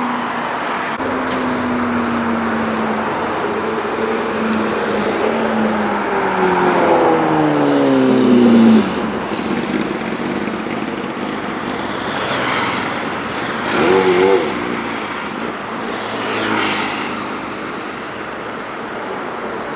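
Sport motorcycles passing by in traffic. Their engine notes fall in pitch as they go past, the loudest one about nine seconds in. Another bike's engine revs briefly about fourteen seconds in.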